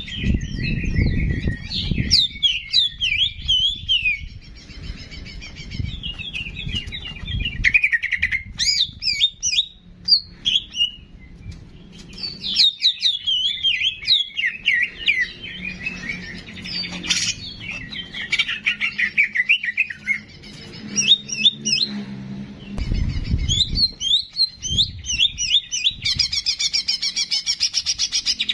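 Cicak jenggot songbird singing: fast runs of high chirps and twittering phrases in bursts separated by short pauses, turning into a rapid even trill near the end. Low rumbles come and go near the start and again about 23 seconds in.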